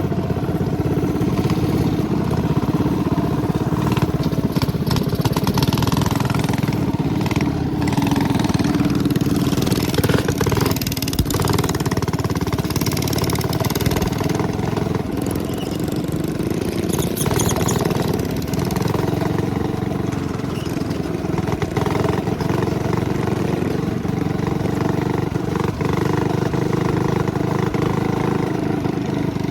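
Minibike's 212cc single-cylinder engine running steadily under way, holding a fairly even speed.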